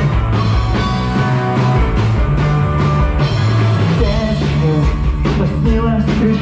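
Rock band playing live through an instrumental break between sung verses, with a steady bass line under guitars and regular drum hits.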